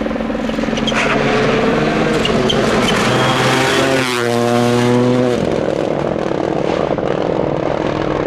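Rally car engine running hard as the car passes close by. Its note drops in pitch about four seconds in as it goes past, then gives way to a rougher engine and tyre noise.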